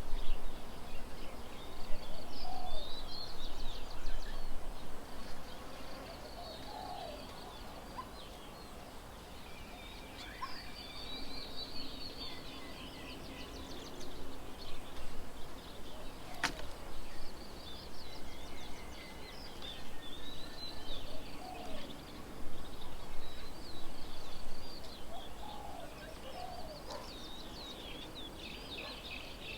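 Several birds chirping and calling at once, short high trills and twittering calls with some lower calls mixed in, over a steady outdoor background hiss. A single sharp click sounds about halfway through.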